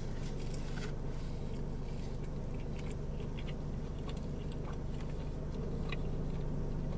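A person chewing a mouthful of cheesesteak sandwich, with small scattered mouth clicks, over the steady low hum of a car cabin.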